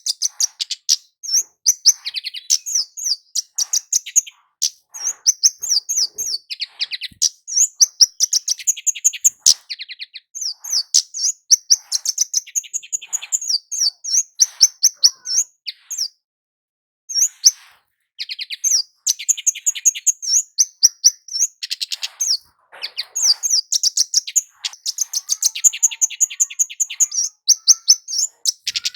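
Scarlet-headed flowerpecker (kemade jawa) singing: rapid runs of high, thin 'cit' chirps, with a short pause a little past halfway.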